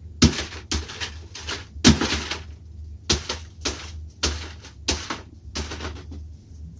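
A hammer striking a CD again and again, about ten sharp blows at an uneven pace to smash the disc to pieces. The first and fifth blows are the loudest.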